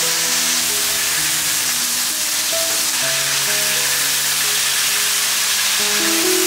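River snails sizzling as they are stir-fried in a hot wok with a spatula, a steady frying hiss. Soft background music of long held notes plays under it.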